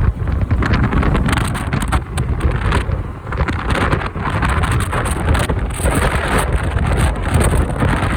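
Strong typhoon wind buffeting the microphone on a moving motorbike: a loud, rumbling wind noise that swells and dips in gusts.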